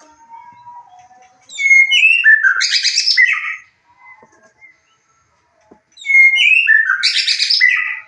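White-rumped shama singing: two loud phrases about four seconds apart, each opening with clear whistled notes and running into a dense chattering burst, with faint whistles in between.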